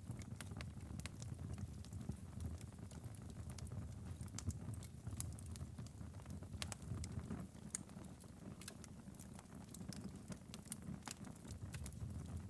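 Wood fire crackling in a fireplace: a low rumble of flames with frequent sharp, irregular pops and snaps.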